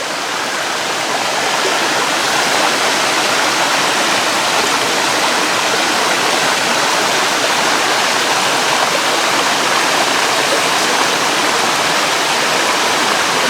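Rushing water of a mountain waterfall and stream, a loud, steady rush that swells a little over the first two seconds and then holds even.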